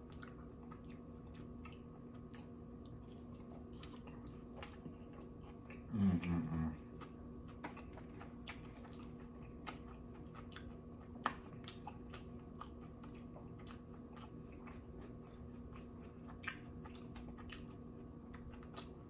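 Close-miked chewing of a sauce-dipped pork dumpling: soft, wet mouth clicks and smacks throughout. Near six seconds in comes a short hummed 'mm' of approval, the loudest sound. A faint steady hum sits underneath.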